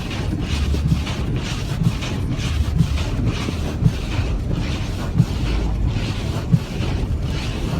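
Inside a car driving through heavy snow: steady engine and road rumble, with windshield wipers swishing and knocking about every second and a half.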